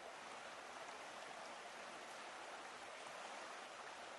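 Faint, steady rushing noise with no distinct events, like running water or hiss.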